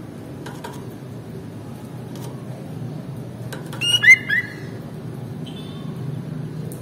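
Sooty-headed bulbul (kutilang) giving a short burst of three or four quick, sharp notes about four seconds in, over a steady low background rumble.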